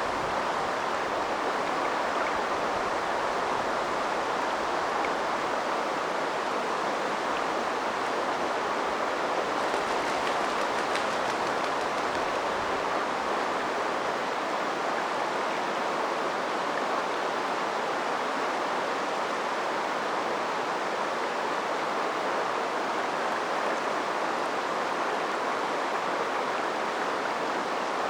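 A small river flowing over rocks, a steady, even rush of water.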